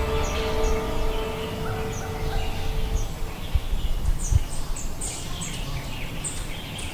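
Forest ambience of many birds chirping, short high calls repeating and coming more often in the second half, over a low rumble. A held note of background music fades out about three seconds in.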